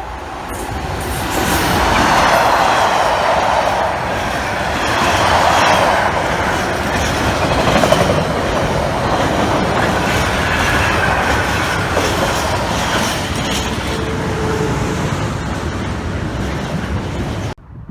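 A train passing close by, its wheels clattering over the rail joints with some squealing. The sound builds over the first two seconds and cuts off abruptly near the end.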